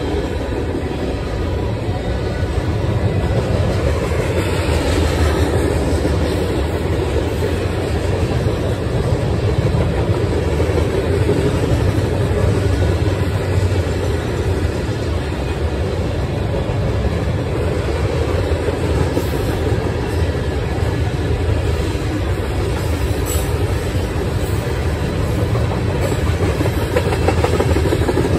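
A freight train's covered hoppers and tank cars rolling across a trestle overhead: a steady rumble of steel wheels on rail.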